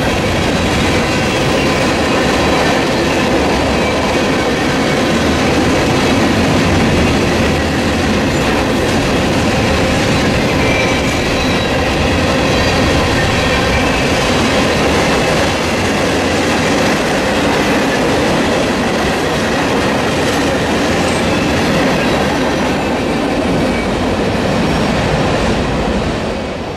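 Freight train of tank cars and covered hoppers rolling past: steel wheels rumbling and clacking over the rails in a steady, loud stream, with a faint squeal at times. The sound begins to fade near the end as the last car goes by.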